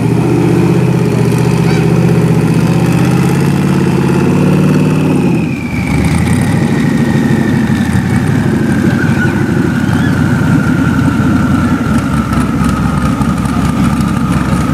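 Modified Chevrolet Corvette C6's V8 idling loudly as the car creeps along, its note turning rougher and more uneven about five seconds in. A thin whine sits above it and slowly falls in pitch through the second half.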